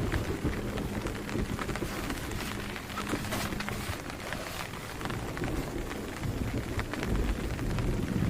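Steady rain falling, with many separate drops striking a nearby surface, and a low rumble building near the end.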